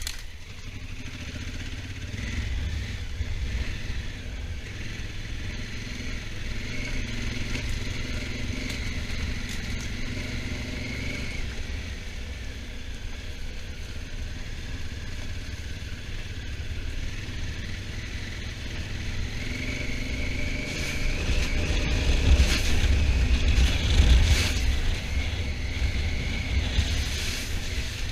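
Honda Africa Twin motorcycle engine running under way, with heavy wind rumble on the microphone. About two-thirds of the way through, the engine note rises and gets louder as the bike accelerates, then eases off near the end.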